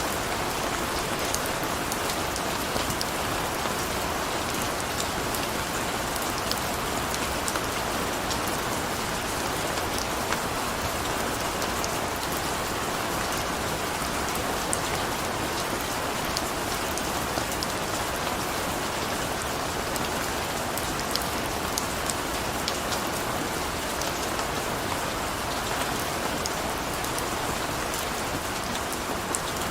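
Steady rain, with scattered sharp drop ticks over an even hiss.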